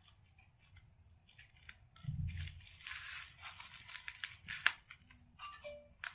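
A tape seal on a packet being cut, with crinkling and rustling of the packaging. There are faint ticks at first, then a couple of seconds of rustling and cutting noise with one sharp click.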